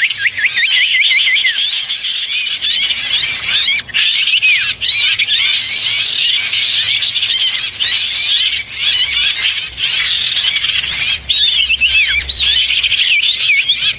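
A dense, continuous chorus of many small songbirds chirping and calling over one another, with quick rising and falling notes: a noisy mixed-species bird-lure recording.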